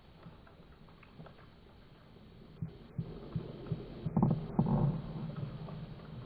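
Muffled knocks and clicks that come more often after a couple of seconds, with two heavier thumps about four seconds in.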